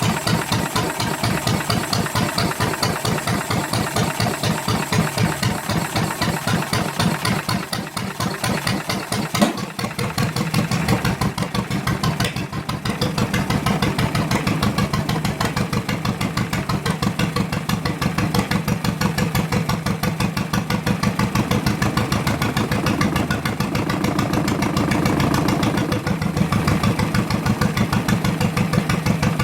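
Ford Model T engine cut down to two cylinders and used as a boat motor, running steadily with a rapid, even firing beat. A single sharp knock stands out about nine and a half seconds in.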